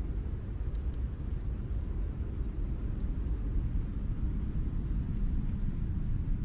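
Fireplace fire crackling: a few sharp, sparse pops over a steady low rumble.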